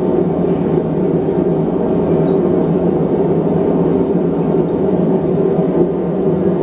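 Blacksmith's forge running, a steady rushing noise with no hammer blows.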